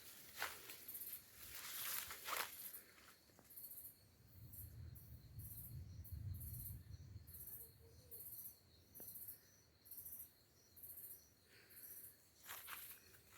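Footsteps crunching on forest ground at the start and again near the end. In between, an insect chirps high-pitched in a steady rhythm, about two chirps a second.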